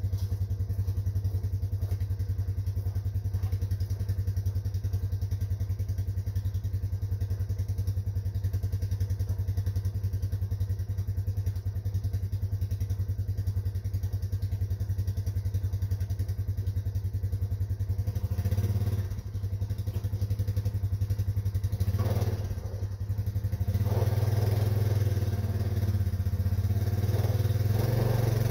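A small engine, most likely the ATV's, idling steadily, then revving and pulling under load from about 18 seconds in and again from about 24 seconds, with some clatter.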